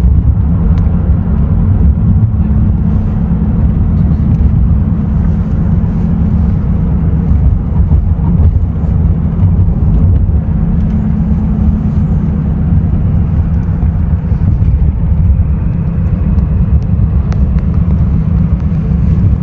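A car driving, with a loud, steady, low rumble of road and engine noise and no change in pace.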